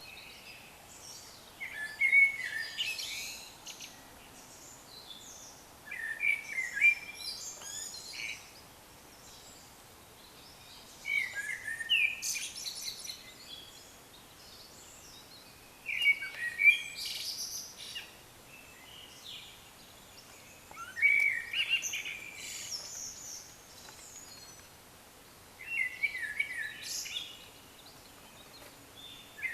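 A songbird singing in short, varied phrases of about two seconds each, repeated roughly every five seconds, six times over. Each phrase is a quick run of high notes with some fast trills, heard over a faint steady background hiss.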